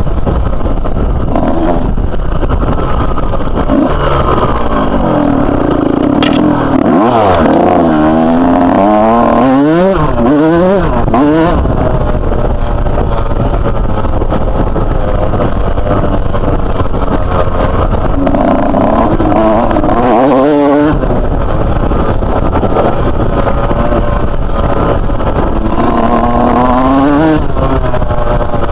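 Two-stroke motocross bike engine being ridden hard, its pitch climbing and dropping again and again as the throttle is worked through the gears, with the busiest run of revs a few seconds in and more toward the end.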